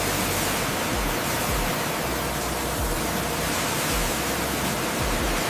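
Pressure-washer water jet hissing steadily as it blasts moss and grime off the aircraft's skin.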